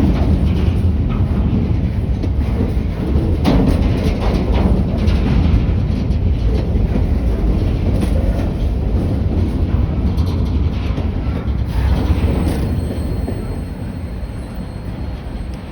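A train rolling past with a heavy low rumble and wheels clicking over rail joints now and then; it starts to fade away over the last few seconds.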